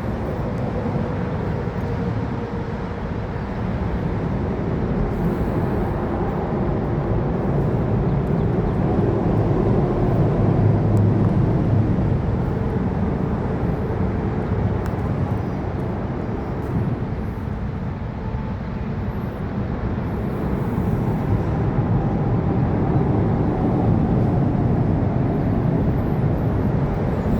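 Freight train rolling past at a grade crossing: a steady rumble of wheels on rail that swells and eases a little, with faint steady tones above it.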